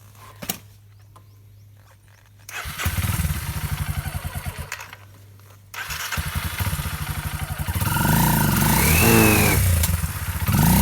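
Enduro motorcycle engine firing up about two and a half seconds in, dying away after a couple of seconds, then catching again abruptly and revving up and down near the end.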